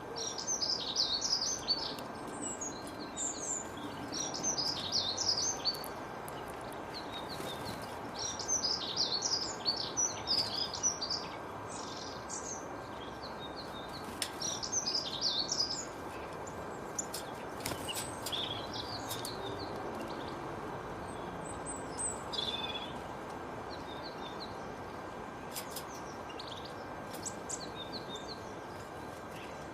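Songbirds singing in quick, chattering high phrases, each burst lasting a second or two, busy through the first half and sparser later, over a steady background hiss.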